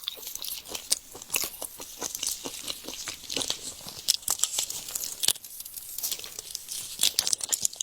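Close-miked eating of shrimp: a steady run of irregular crisp crunches and wet chewing clicks.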